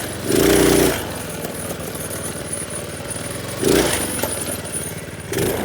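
Minibike's small engine running, with brief louder surges in revs about half a second in and again near four seconds in.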